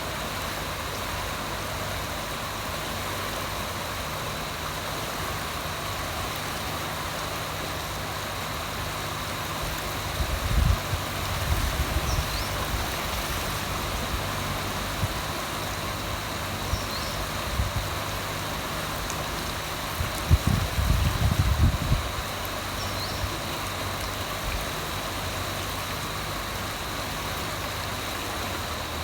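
Forest river rushing steadily, with a few faint short bird chirps. Twice, about ten and twenty seconds in, a spell of loud low rumbling bumps rises over the water for a second or two.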